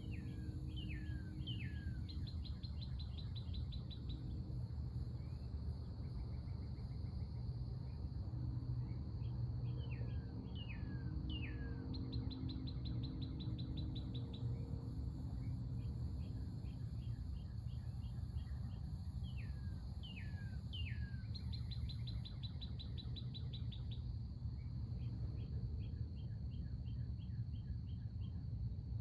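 A songbird sings the same phrase three times, about every ten seconds: a few whistled notes sliding down, then a fast trill, then a short run of quick notes. Underneath is a steady, high insect drone and a low background rumble.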